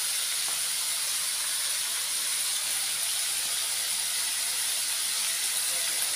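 Chicken pieces sizzling in an aluminium wok: a steady, even hiss.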